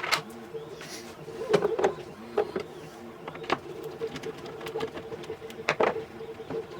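Tools and small parts clicking and knocking a few times, irregularly, over a steady low hum.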